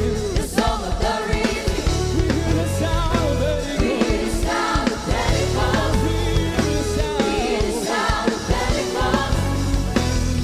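A church choir singing a gospel song over band accompaniment, with a steady low bass line.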